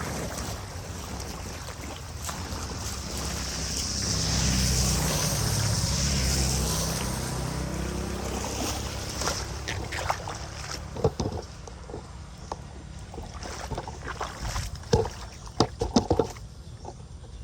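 An engine running with a steady hiss of water or wind behind it. It grows louder and shifts in pitch about four seconds in, then eases off. Near the end come a series of sharp knocks and clatters.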